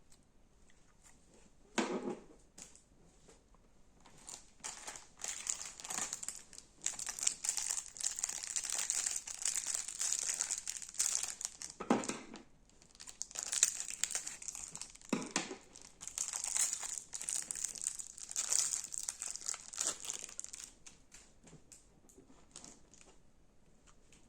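Crunchy slime being squeezed and pressed by hand, giving dense crackling and popping for most of the stretch. A few soft thuds come about 2, 12 and 15 seconds in. The crackling fades out near the end.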